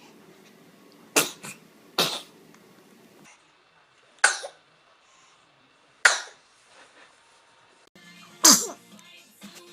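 Young children sneezing: about five short, sharp sneezes, spaced one to two seconds apart.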